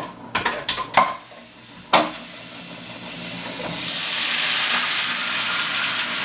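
Cicadas frying in a pan of garlic and butter, sizzling, with a few sharp clicks of a utensil against the pan in the first two seconds. The sizzle swells much louder about four seconds in.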